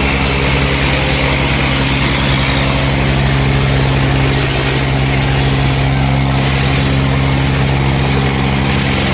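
Eicher 557 tractor's diesel engine running at a steady speed, loud and unchanging.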